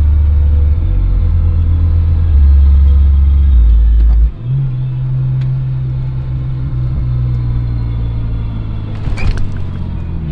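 Low engine and road drone heard inside a BMW E46 wagon's cabin while driving, the engine sitting on stiff polyurethane mounts. The drone shifts pitch in a few steps over the first four seconds, then holds steady, with a brief rattle near the end.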